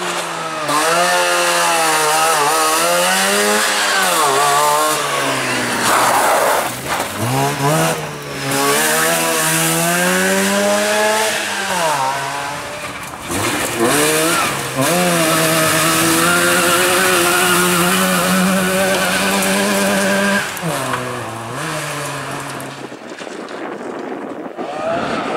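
Trabant rally cars' two-stroke twin-cylinder engines revving hard at full throttle, the buzzing pitch climbing through each gear and dropping sharply at the shifts. The sound fades near the end.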